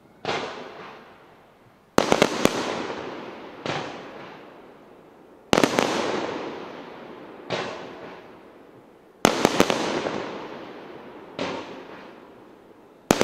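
Aerial firework shells bursting in a steady series about every two seconds. Loud bangs made of two or three sharp cracks alternate with duller, quieter booms, and each bang fades away slowly in a long echo.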